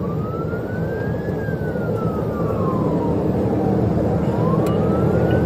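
Police siren on a slow wail: the tone rises, falls over about three seconds, and starts rising again near the end, over heavy road and engine noise from a car in a high-speed pursuit at about 100 mph.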